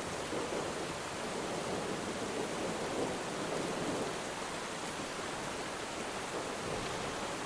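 Steady rainfall, an even hiss with no separate drops standing out, swelling slightly in the first few seconds.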